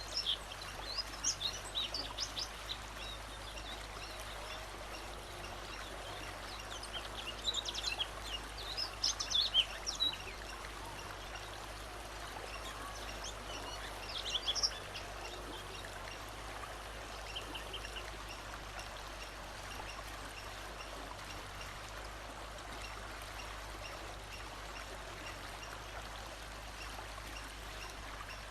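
A songbird singing short, high, rapid phrases in several bouts: at the start, about seven seconds in, and around fourteen seconds, with a faint one just after. Between the bouts there is only a steady rushing background hiss.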